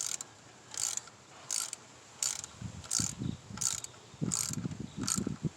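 Hand ratchet wrench clicking in short, evenly paced strokes, about one every 0.7 s, with some dull knocks of tool and metal in the second half.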